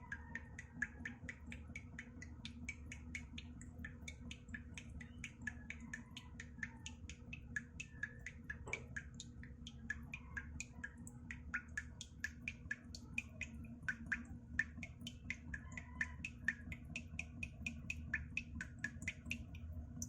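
Water droplets dripping, a quick sharp plink about three times a second in a steady rhythm, over a low steady hum.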